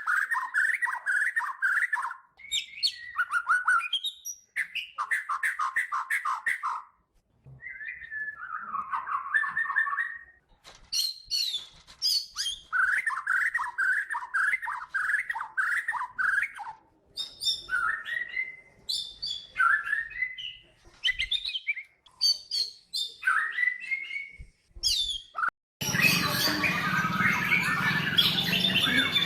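A shama (murai batu) singing: phrases of fast repeated whistled notes and trills, broken by short pauses. About 26 seconds in, the sound cuts abruptly to a dense, noisy mix of many birds singing at once.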